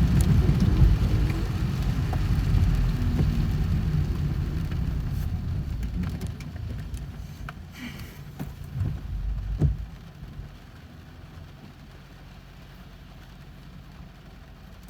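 Car road noise heard from inside the cabin: a low rumble that fades away over the first several seconds, leaving a quieter steady hum, with a few short clicks and knocks about two-thirds of the way through.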